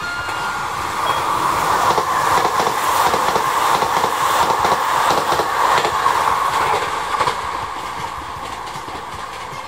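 Tobu N100 series Spacia X electric express train passing at speed: the wheels run and clack over the rail joints, swelling as the train goes by and fading as it draws away over the last few seconds.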